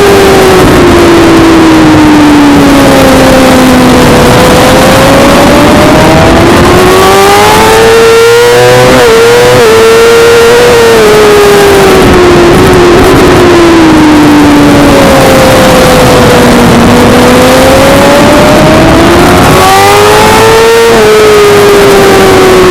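Suzuki GSX-R600 inline-four engine at racing revs, loud: the pitch drops as the bike slows, then climbs under hard acceleration with quick upshifts, and the cycle happens twice.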